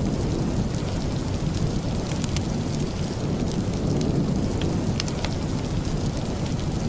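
Steady heavy rain with a deep rumbling undertone and scattered sharp ticks throughout.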